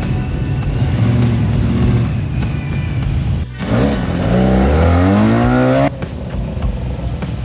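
A car engine running, then revving up hard as the car accelerates, its pitch rising for about two seconds before cutting off suddenly, with background music underneath.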